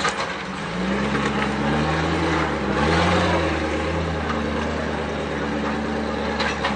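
Engine of an off-road 4x4 rock-crawling buggy under load climbing boulders, revving in repeated bursts that rise and fall in pitch. From about four seconds in it runs at steadier revs.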